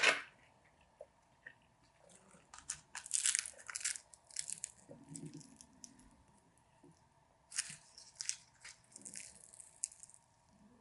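A person biting and chewing crunchy food close to the microphone, in two bouts of quick crunches with quieter gaps between them.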